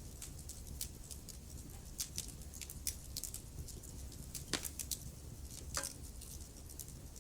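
Wood fire burning in a fireplace, crackling with irregular sharp pops, the loudest about four and a half and six seconds in, over a low steady rumble of the flames.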